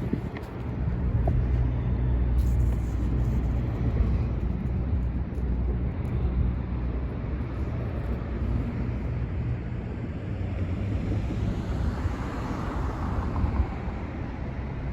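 Metra commuter train's diesel locomotive and coaches running through the station: a steady low rumble with a deep hum that swells about a second and a half in and holds, with a faint whine rising and falling near the end.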